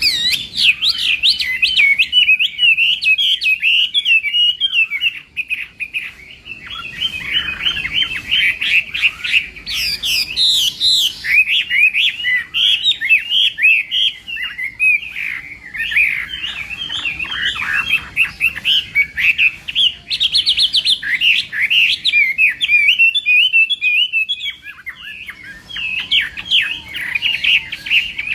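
Chinese hwamei singing continuously: a fast, varied stream of whistled and warbled notes with hardly a pause, thinning out briefly about four fifths of the way in.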